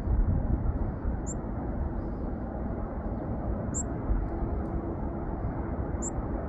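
A small bird's short, very high call, repeated three times about every two and a half seconds, over a steady low outdoor rumble.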